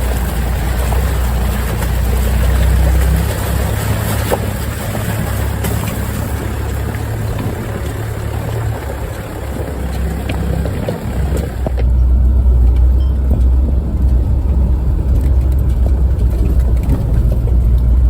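A 4x4's engine running at low revs as it drives a rough stony off-road track, with tyre and stone noise and scattered knocks over it. About twelve seconds in, the rougher noise falls away and the low engine hum grows louder.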